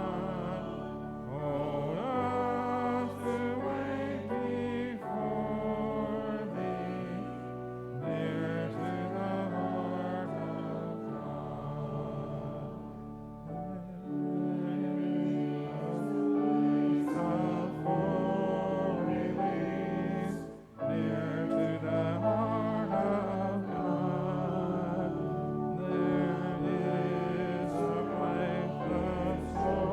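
Voices singing a hymn together with sustained instrumental accompaniment, in long phrases with brief pauses between them.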